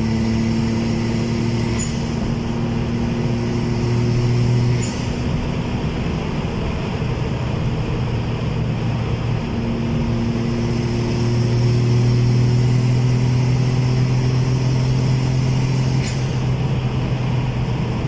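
A car engine running at a steady speed, a continuous drone with a haze of road or mechanical noise. The drone fades back for a few seconds about five seconds in, then returns and holds.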